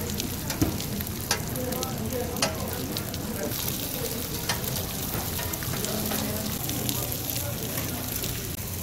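Assorted battered jeon (zucchini, perilla leaf, fish and sausage pancakes) sizzling steadily in oil on a flat steel griddle. A metal spatula clicks and scrapes against the griddle a few times as the pieces are turned and pushed.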